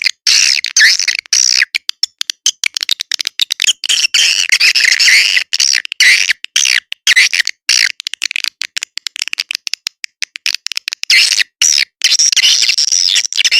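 Swiftlet calling-sound track, a lure played to draw swiftlets into a nesting house: a dense chorus of shrill twittering chirps, broken by many abrupt gaps of silence.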